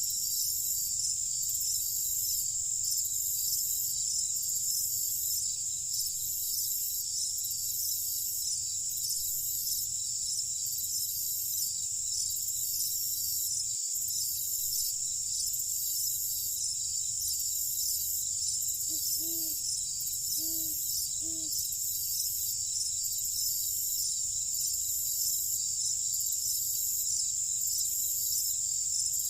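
Night chorus of crickets: a steady high trill with a slower even pulsing over it throughout. About two-thirds of the way through, a few short low calls from another animal sound in quick succession.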